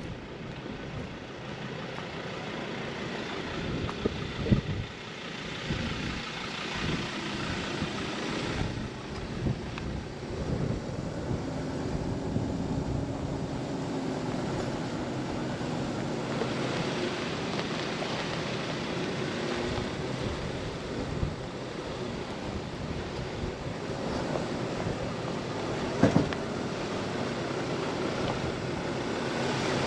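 A vehicle running steadily under wind noise, with short knocks about four and a half and twenty-six seconds in.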